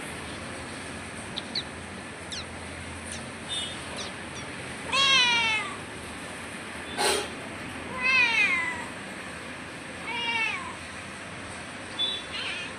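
Domestic cat meowing three times, each meow falling in pitch, with a sharp knock between the first two.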